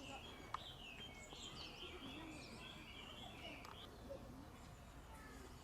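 Faint songbird twittering: a quick, wavering run of high notes lasting about three and a half seconds, over steady outdoor background noise. A single sharp click about half a second in.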